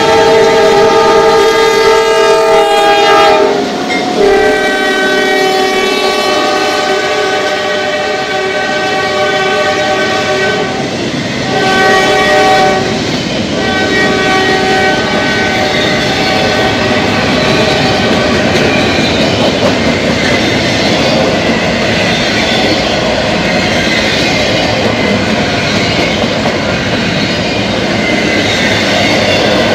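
Norfolk Southern diesel freight locomotive's air horn blowing long, long, short, long, the grade-crossing signal, the last blast fading as the locomotives pass. Then the steady rumble and clatter of double-stack intermodal cars rolling by on the rails.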